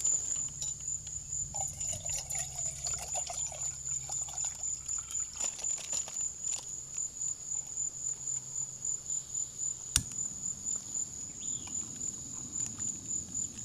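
A steady high-pitched insect trill, pulsing a few times a second, over faint bubbling of water coming to the boil in a camp pot. There is a single sharp click about ten seconds in.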